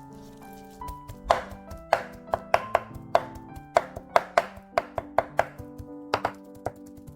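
Knife chopping on a cutting board, starting about a second in with quick, irregular strokes, about three a second, over light background music.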